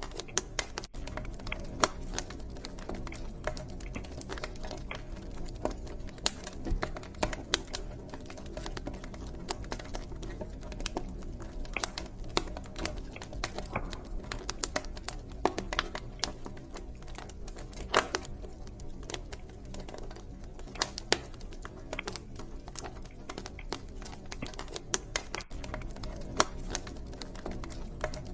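Wood fire in a fireplace crackling: dense, irregular small pops and snaps over a low steady rumble of the flames, with a few louder cracks now and then.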